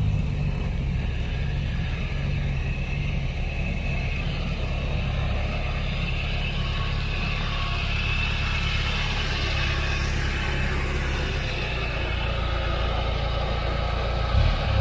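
Off-road 4x4's engine running at low, steady revs as the vehicle crawls down a steep, rough section of track.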